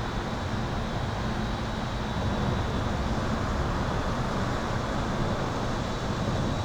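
Steady, continuous highway traffic noise heard from beneath an overpass, with a low electrical hum and a thin, steady high-pitched tone running through it.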